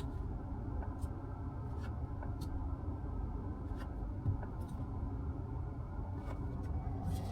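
Steady low rumble inside the cabin of a Mazda CX-5, with a few faint, irregularly spaced light clicks.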